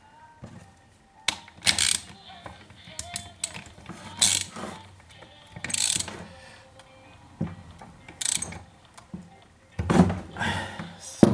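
Hand work on a petrol chainsaw: irregular clicks, knocks and scraping strokes of tools and small metal parts, coming every second or two with a louder cluster near the end.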